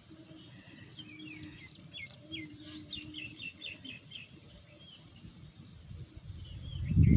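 Birds chirping outdoors, with a quick run of about eight short repeated notes around the middle. Near the end a louder low rumbling noise begins.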